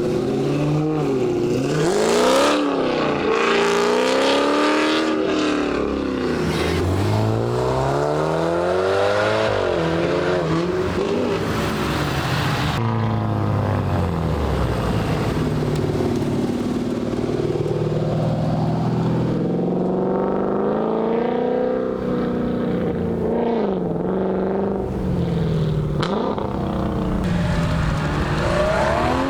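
Car engines accelerating hard, their pitch climbing and then dropping again and again as they rev up and shift gears.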